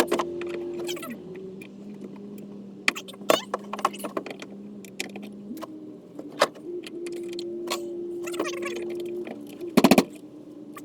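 Cordless drill-driver backing out a wood screw at low trigger speed: a steady motor hum that steps in pitch as the trigger is eased. Scattered sharp clicks and taps of metal come through it, and a short loud burst sounds near the end.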